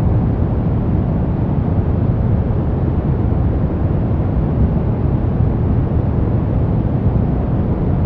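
Steady brown noise: a deep, even rushing hiss, strongest in the low end and fading toward the highs, with no changes.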